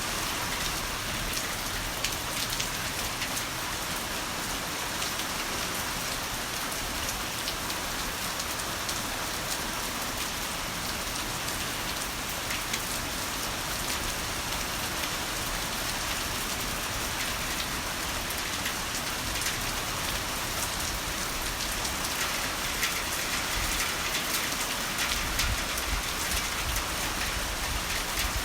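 Heavy rain falling steadily, a dense hiss with scattered individual drop splashes; a low rumble comes up near the end.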